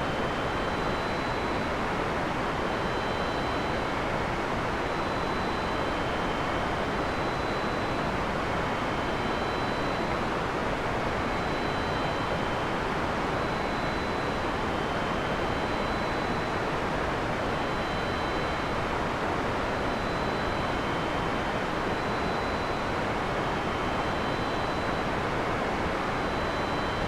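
Heavy rain falling steadily in a forest, an even unbroken hiss with no thunderclap. Faint short high tones repeat over it about every second and a half.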